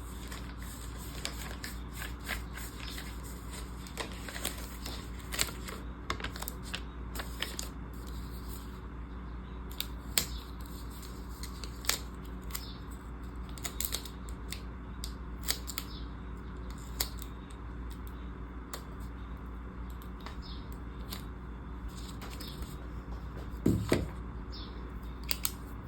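Scattered light clicks and taps of planner supplies being handled, with a louder knock near the end, over a steady low hum.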